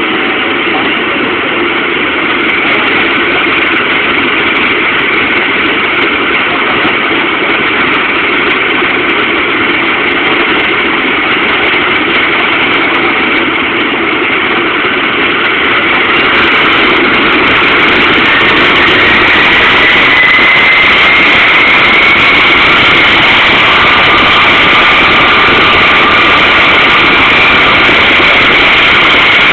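Helicopter running, a steady engine noise with a high turbine whine, growing louder about halfway through.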